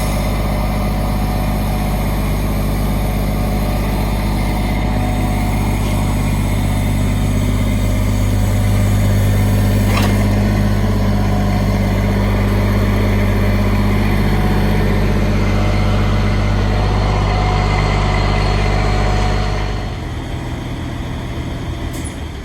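Grapple truck's engine running steadily, its note rising a little around the middle, then dropping away sharply near the end.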